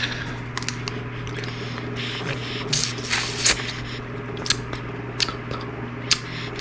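Someone biting into and chewing a frozen sour popsicle: scattered short crunching, wet clicks, over a steady low hum.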